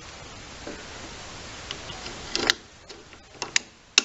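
A steady hiss, then four or five sharp clicks and knocks in the second half, with no engine running or cranking.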